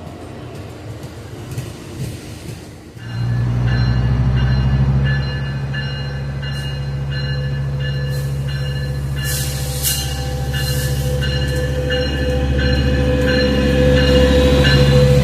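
A locomotive's engine comes up suddenly about three seconds in and runs loud and steady. A bell rings over it about twice a second, and there is a short hiss near the middle.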